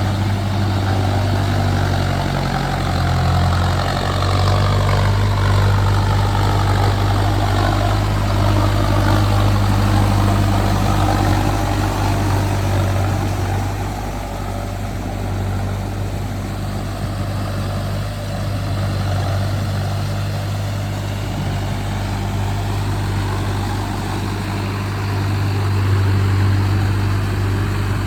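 Mahindra Arjun Novo tractor's diesel engine running steadily, with a whine that sweeps up and down in pitch through the first half.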